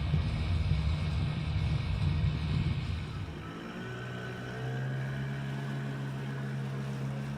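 Boat motor running with a steady low drone; about halfway through it settles into a smoother, lower, steadier hum, as if throttled back.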